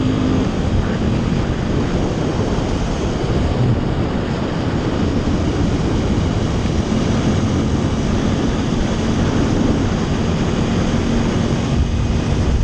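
Wind rushing over the microphone of a moving motorcycle, with the engine running steadily underneath as a low hum.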